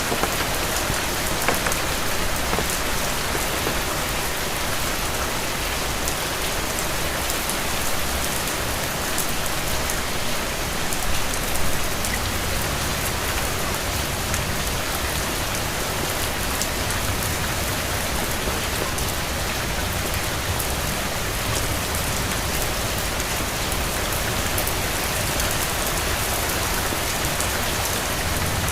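Steady rain falling: a dense, even hiss with fine ticks of individual drops.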